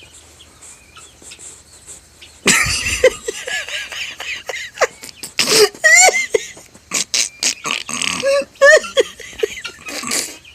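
A woman laughing hard and loudly, in uneven high bursts with gasps between them, starting suddenly about two and a half seconds in.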